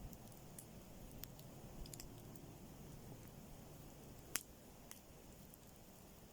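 Faint, sporadic snaps of a campfire crackling, one sharper snap about four seconds in, over a low steady background hum.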